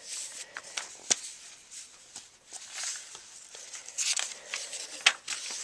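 Paper rustling in several soft swishes, with a few sharp clicks, as of the pages of a handmade book being handled and turned.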